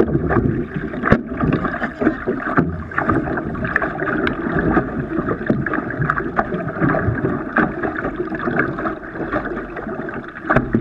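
Water splashing and sloshing around a canoe in ocean surf, with many short splashes.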